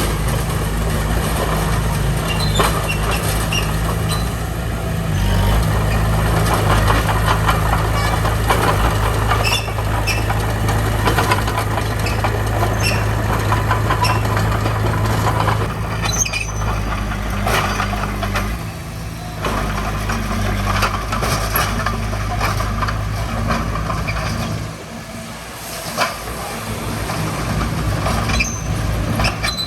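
Diesel engines of heavy earthmoving machinery running under work, the engine note stepping up and down, with scattered metallic clanks and squeaks. The engine sound drops away briefly about two-thirds of the way through and again a little later.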